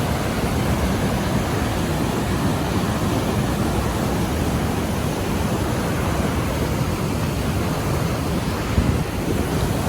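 Niagara River water rushing over the falls and rapids: a steady, even rushing with no breaks, heaviest in the low end.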